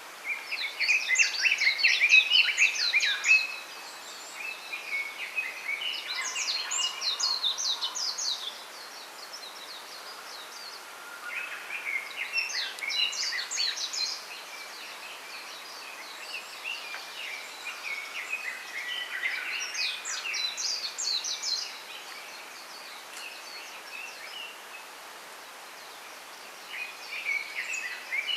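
Small songbird singing in bouts of rapid, varied twittering phrases, about five songs with pauses of a few seconds between them, over a steady soft hiss from the bamboo grove.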